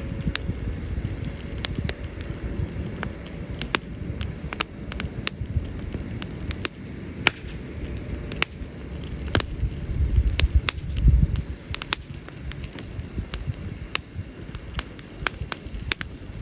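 Wood campfire burning, with sharp, irregular crackles and pops over a low rumble that swells briefly about ten seconds in.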